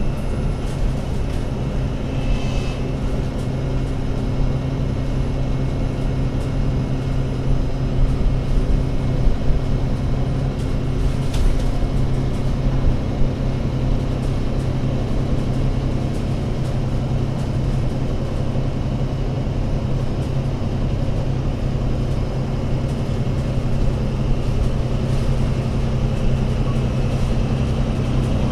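Diesel engine of an ADL Enviro500 MMC Euro 6 double-decker bus running steadily, a low, even drone that holds one pitch without revving up or down.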